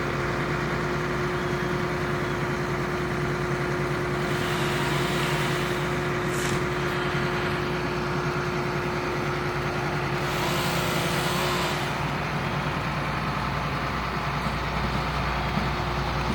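A large engine idling steadily, with two stretches of rushing hiss about four and ten seconds in.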